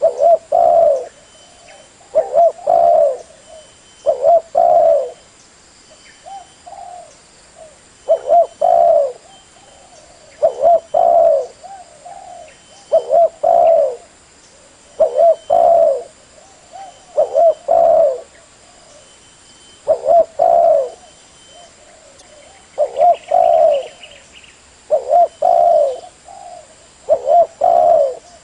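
Spotted dove cooing: loud phrases of two or three coos, repeated about every two seconds.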